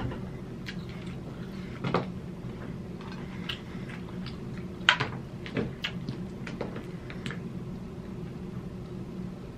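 Close-up eating sounds: chewing king crab meat, with a few sharp clicks as crab shell is handled over a foil pan, the loudest about five seconds in. A steady low hum sits underneath.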